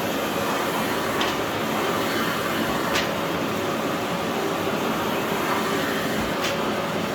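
Philips PowerPro FC9331/09 900 W bagless vacuum cleaner running steadily, with a few brief sharp clicks over its even whooshing.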